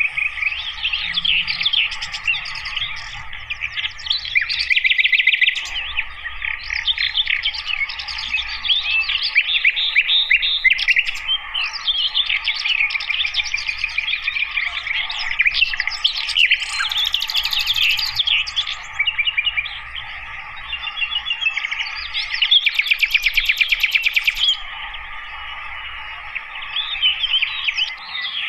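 Sikatan londo flycatcher singing: a fast, continuous twittering song full of rapid trills and chirps, easing off briefly past the middle before picking up again.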